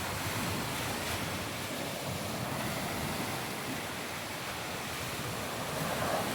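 Sea surf washing onto a sandy beach: a steady hiss of breaking waves.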